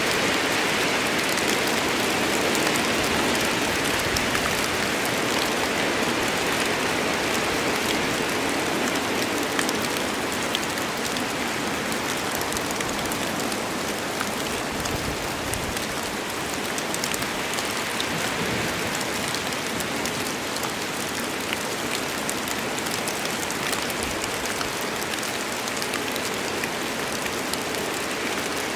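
Steady rain falling in a forest, a dense hiss with fine drop patter, easing slightly after the first ten seconds or so.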